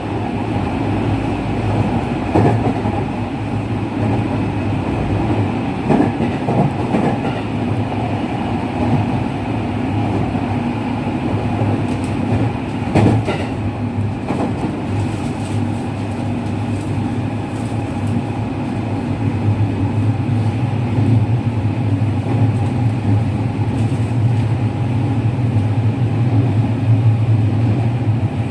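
JR West 207 series electric multiple unit running between stations, heard from inside the car: a steady rolling rumble with an occasional knock of the wheels over rail joints, growing a little louder near the end.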